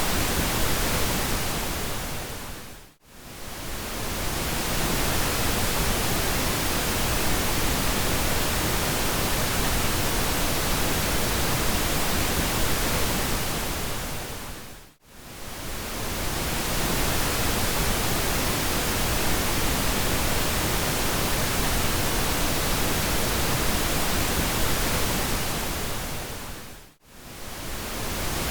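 Continuous pink noise, an even hiss across all pitches, that fades down to near silence and back up three times, about twelve seconds apart.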